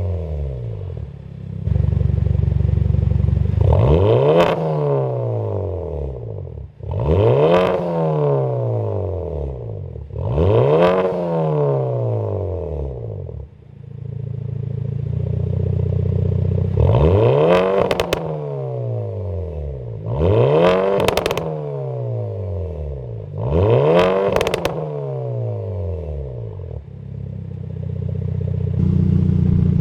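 Hyundai i30 N's 2.0-litre turbo four-cylinder, breathing through a full turbo-back exhaust, being blipped from idle six times. Each rev rises and falls quickly, with sharp crackles and pops near the top and on the lift-off, and it settles back to a low idle between revs.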